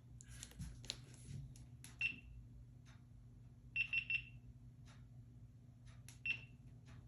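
Faint electronic beeps: a single beep, then three quick beeps in a row, then one more single beep, over a few light clicks and a steady low hum.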